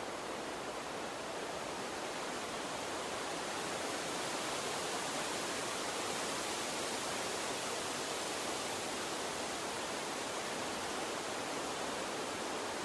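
A water stream running, a steady rushing hiss with no separate splashes, getting slightly louder a few seconds in.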